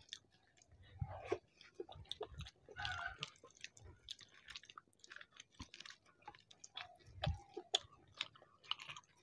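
Faint, wet chewing and lip-smacking of two people eating soft khichuri with their hands, in scattered short clicks.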